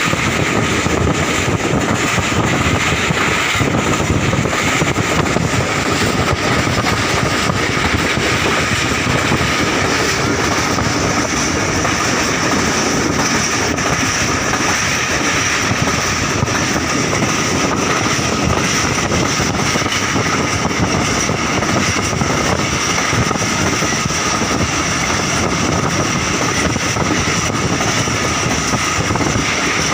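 Passenger train running along the track, heard from on board: a steady, unbroken running noise of wheels on rails.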